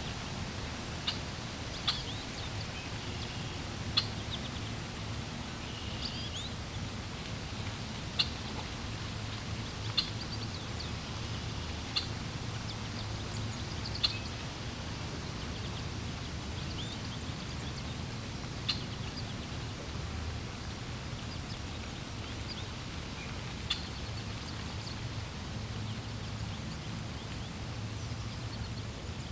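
Steady rush of flowing water with short, high bird chirps every couple of seconds, growing sparser in the second half.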